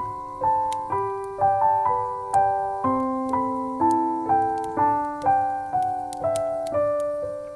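Gentle solo piano music: a slow melody of single struck notes, each fading away before the next.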